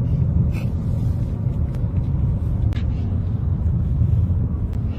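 Car driving, a steady low rumble of road and engine noise with a few faint ticks.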